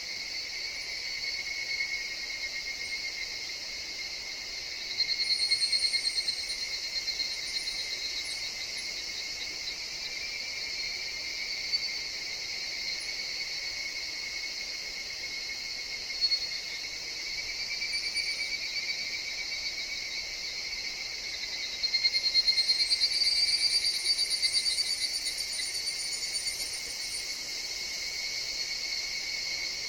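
Chorus of higurashi (evening cicadas, Tanna japonensis) calling continuously with a fast pulsing trill. The chorus swells louder twice, about five seconds in and again about twenty-two seconds in, then settles back.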